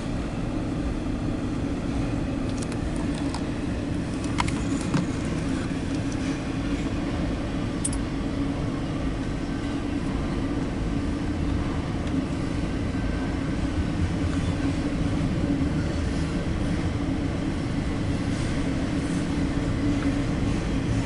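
An engine running steadily: a constant low rumble with a steady hum, and a few light clicks and knocks in the first five seconds.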